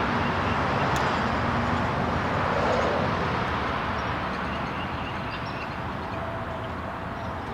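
Passing road traffic: a steady rush of vehicle noise that swells about three seconds in and then slowly fades.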